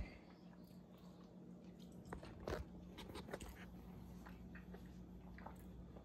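Faint chewing of a bite of steak, with soft mouth clicks and smacks scattered through and one louder smack about two and a half seconds in.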